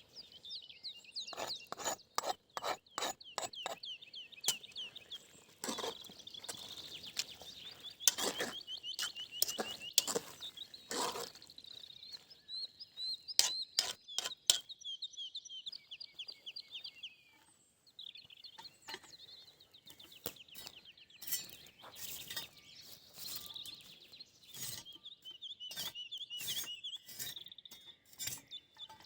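Birds singing in fast, high trills throughout, over a run of irregular sharp clicks and knocks.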